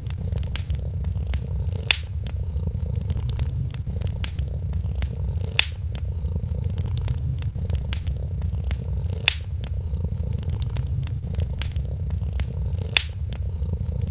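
A cat purring steadily in a low rumble, over a wood fire crackling in a fireplace with many small snaps and four louder pops spaced about four seconds apart.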